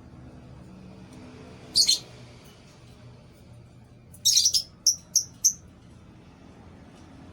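Lovebirds giving short, sharp, high-pitched chirps: one call about two seconds in, then a burst of calls a little past four seconds followed by three quick single chirps.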